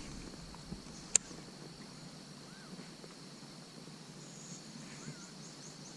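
Quiet pond ambience with faint bird calls and insect chirping, and one sharp click about a second in.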